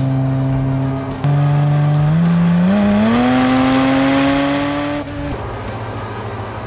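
Porsche 718 Spyder RS's 4.0-litre flat-six running at steady revs, then climbing in pitch in a few quick steps and rising on for about two seconds before the revs drop abruptly about five seconds in.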